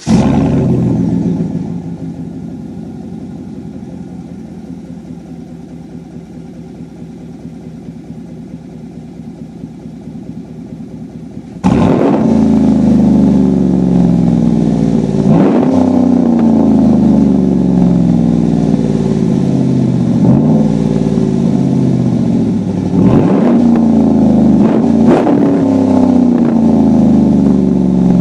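2014 Chevy Silverado's straight-piped exhaust (3-inch cat-back, no muffler) as the engine fires and settles to a steady idle. About twelve seconds in it suddenly gets much louder and is revved several times, each rev falling back in pitch.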